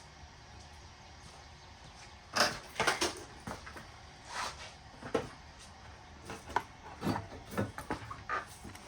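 Hand tools being handled, most likely metal sockets: a run of irregular knocks and clinks that starts about two seconds in.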